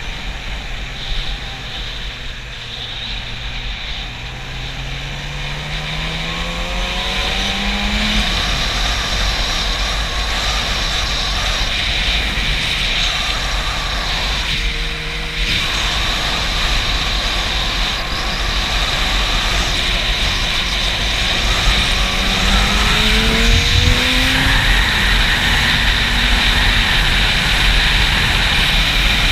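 Yamaha YZF-R6 inline-four engine pulling as the motorcycle accelerates, its pitch rising over several seconds, easing briefly about halfway through, then rising again. Heavy wind buffeting on the camera microphone runs under it.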